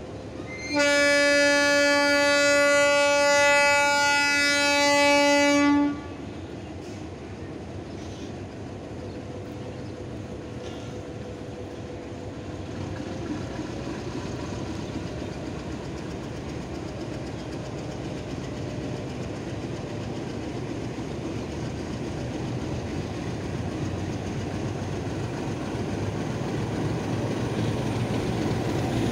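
Diesel locomotive horn sounds one long, steady blast for about five seconds as the train departs. The locomotive's engine and the train's running noise then grow steadily louder as it draws alongside.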